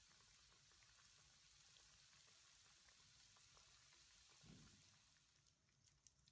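Flour-coated chicken wings frying in oil in a wok: a faint, steady sizzle with fine crackling. There is a soft low thump about four and a half seconds in, and near the end the sizzle thins to scattered pops.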